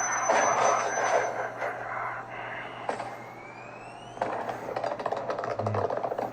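Fireworks: a rising whistle about three seconds in, then rapid crackling bursts from about four seconds on, after a loud rushing noise at the start.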